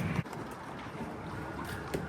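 Steady rushing noise of wind on the microphone, gustier at the start, with a small click near the end.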